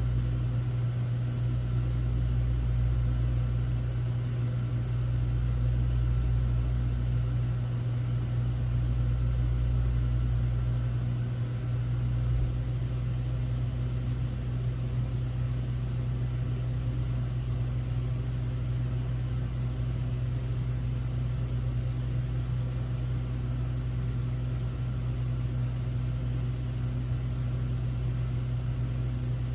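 Hotel room air conditioner running with a steady low hum. About twelve seconds in, a faint click comes and the deepest, wavering part of the rumble eases off, leaving an even drone.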